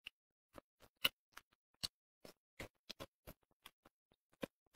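Close-miked eating sounds of someone chewing braised fish: a string of short, wet mouth clicks and smacks at uneven spacing, roughly three a second.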